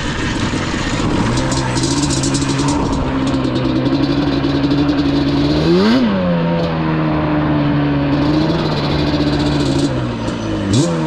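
Yamaha Banshee's twin-cylinder two-stroke engine running at a steady pitch, with a quick rev that rises and falls about six seconds in and another near the end.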